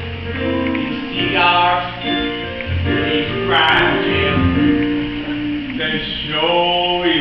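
A slow song: a voice sings a held, gliding melody over plucked acoustic guitar.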